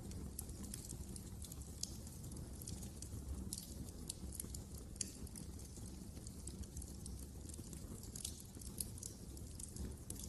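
Wood fire in a fireplace crackling: many small, irregular pops and snaps over a low, steady rumble.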